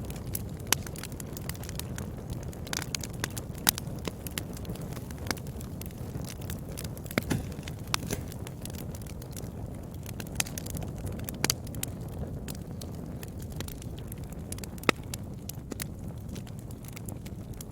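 Wood fire burning in a fireplace, crackling continuously over a low steady rumble of the flames, with irregular sharp pops from the burning logs.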